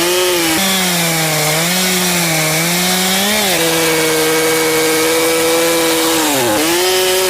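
Chainsaw running while cutting through a large log. Its engine pitch sags and recovers as the chain is loaded in the cut, holds steady for a few seconds, then dips sharply once more near the end.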